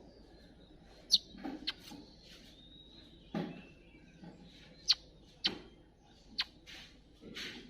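Small birds chirping at the nest: about half a dozen short, sharp, high chirps scattered through, over a faint thin high note near the start. There is a soft low thump a little before the middle.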